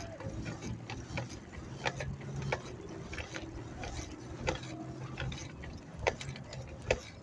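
Bicycle being ridden: scattered, irregular clicks and ratcheting from the bike's drivetrain and frame over a steady low hum.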